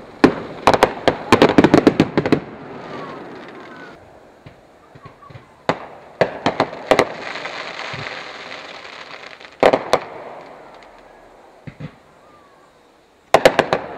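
Fireworks display: aerial shells bursting in sharp bangs, with a rapid volley of reports in the first couple of seconds, scattered bangs and a hissing stretch in the middle, and another quick cluster of bangs near the end.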